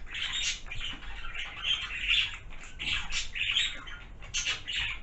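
Repeated short sniffs and rustling as a toiletry bottle is opened and smelled, with one sharp click about three and a half seconds in.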